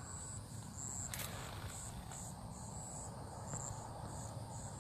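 Crickets chirping in a high-pitched, pulsing chorus, about two pulses a second, over a steady low rumble. A brief click about a second in.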